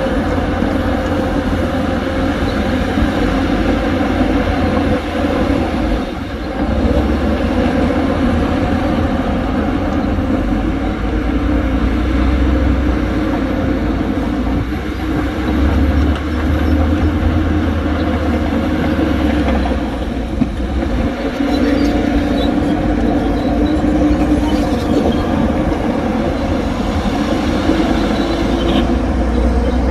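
Heavy diesel earthmoving machinery running steadily, with a deep engine rumble.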